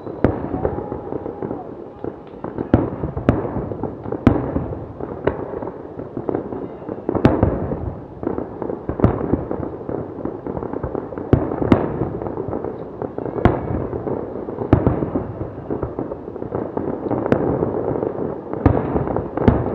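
Fireworks display: shells bursting in a dense, continuous run of crackling, with sharp louder bangs about every second.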